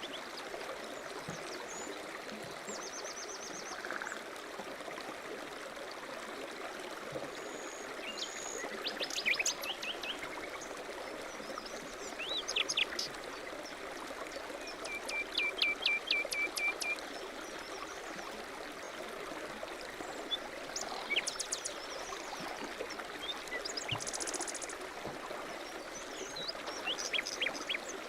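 A stream running steadily, with songbirds calling over it in short chirps and quick trills every few seconds. The most prominent is a run of evenly repeated notes about halfway through.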